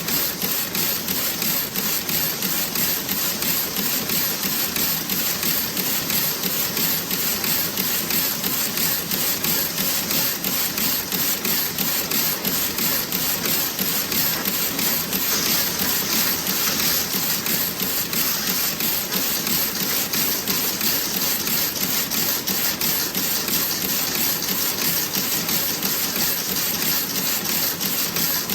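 Toe-sock knitting machine running: steady, fast, rhythmic clicking over a continuous hiss.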